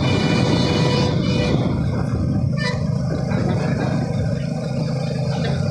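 Motorcycle riding along at steady speed: a continuous low engine drone mixed with road and wind noise.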